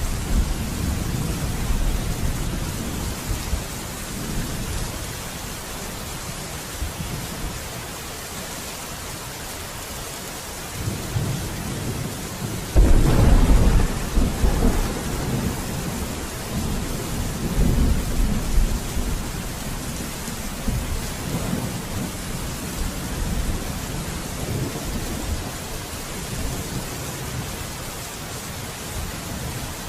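Steady rain with rolling thunder: a rumble fading in the first few seconds, then a sudden loud thunderclap about 13 seconds in that rumbles on, and another rumble a few seconds later.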